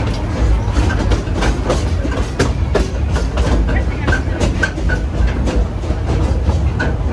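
Steam-hauled passenger train rolling along the track, heard from aboard: a steady low rumble with irregular clicks and clacks of the wheels over the rails, and a few short high squeaks.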